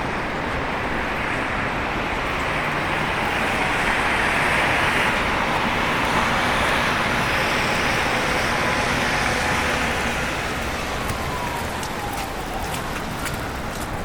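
Road traffic: a vehicle passes, its tyre noise swelling to its loudest in the middle and then fading, with a faint falling whine as it moves away.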